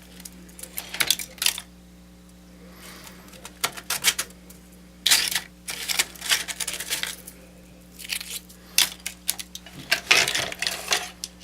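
Broken plastic and metal parts of a crushed Toshiba netbook clicking, rattling and scraping as they are handled and turned over, in several short clusters with pauses between, over a steady low hum.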